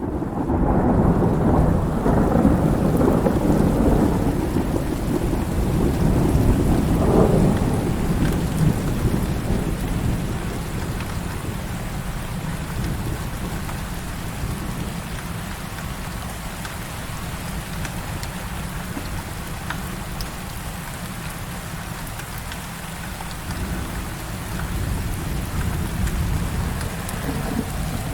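Heavy rain falling steadily, with a long low roll of thunder over the first several seconds that dies away into the steady rain.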